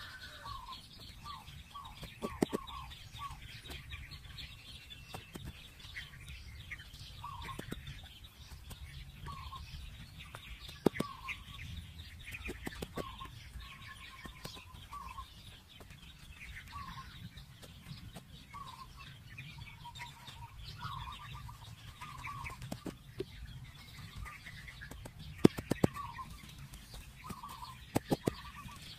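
Birds calling, short calls repeating about once a second, with several sharp knocks scattered through.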